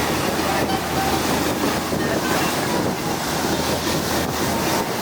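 A boat under way: a steady engine drone under the constant rush of water along the hull.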